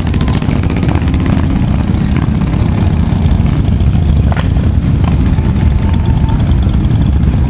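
Motorcycle engines running at low speed, a steady, uneven low engine sound with no change in pace.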